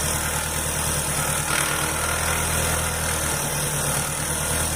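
2003 Astra engine idling with a steady, hellish noise from the accessory-belt tensioner bearing, the sign of a worn-out bearing. A constant layer of noise sits over the low engine hum.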